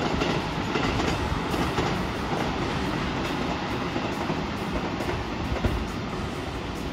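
Multi-car electric commuter train running past on the main-line tracks: a steady noise of wheels on rail.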